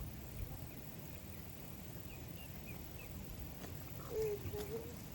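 Chickens in a coop: a few faint short high chirps, then a hen's low wavering call lasting under a second, about four seconds in.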